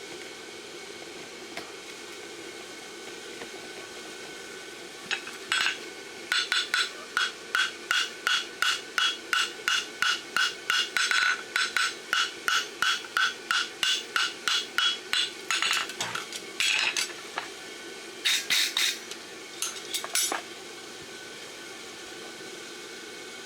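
Hand hammer blows ringing on hot steel bar stock over an anvil while fullering a horseshoe bar. After a few seconds of steady low background hum, a quick even run of ringing blows comes at about two and a half a second for some ten seconds. A few scattered blows follow near the end.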